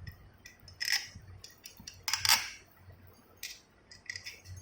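Metal tools and motorcycle engine parts clinking and knocking as they are handled during engine assembly: several separate sharp clinks, the loudest about two seconds in.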